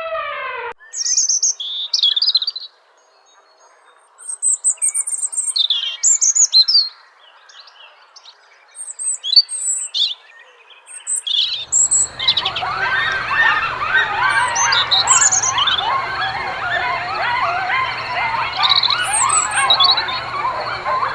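Birds chirping: first scattered, separate high calls with short pauses between them, then from about twelve seconds in a dense chatter of many birds calling at once over a faint low hum.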